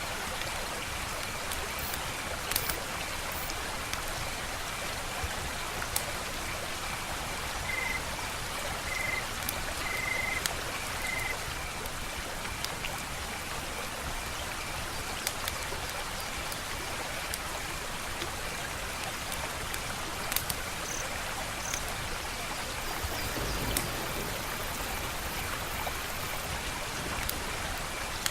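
Wood fire crackling: a steady hiss with scattered sharp pops and snaps, and a faint steady high-pitched tone running underneath.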